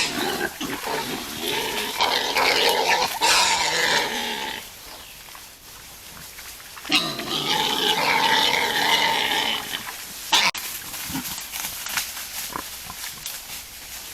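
Wild boars squealing in two loud bouts, the first in the opening four seconds or so and the second from about seven to ten seconds in, followed by a single sharp click.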